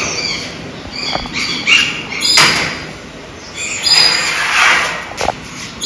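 Birds chirping with short, high calls. There is a sharp knock about two and a half seconds in and a rasping scrape around four and a half seconds.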